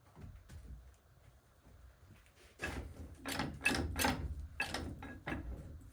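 A run of hard knocks and clatters from the NV4500 transmission's shaft being worked back and forth, starting about two and a half seconds in after a few faint taps, as its end play is checked after the bearing plate and race are fitted.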